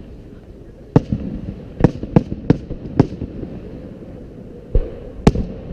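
Aerial firework shells bursting: seven sharp booms, one about a second in, a quick run of four over the next two seconds, then two more near the end, each trailing off in a low rumbling echo.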